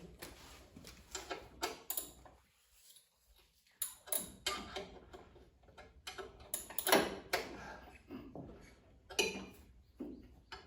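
Irregular light clicks and knocks, as of hard objects being handled and set down, the loudest about seven seconds in.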